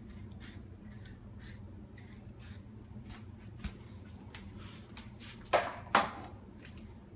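Kitchenware being handled: a run of small clicks and taps, then two louder knocks with a brief ring about half a second apart near the end, over a steady low hum.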